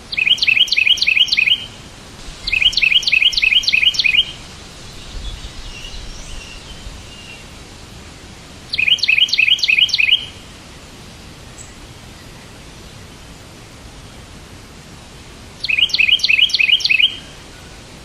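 A bird calling in four bursts of rapid chirps, each a quick run of about seven or eight sharp, downward-slurred notes lasting about a second and a half, over a steady hiss.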